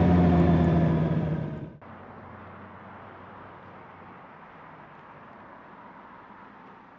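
Motorcycle engine running under way, its pitch easing slightly down, then cut off abruptly less than two seconds in, leaving a faint steady hiss of road and wind noise.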